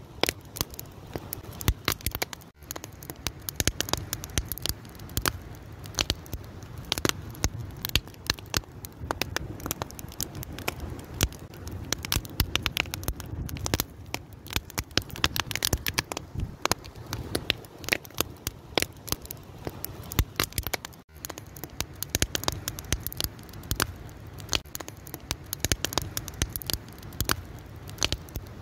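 Wood fire crackling, with a dense run of sharp pops and snaps over a steady low rumble of the burning fire; the sound drops out for an instant twice.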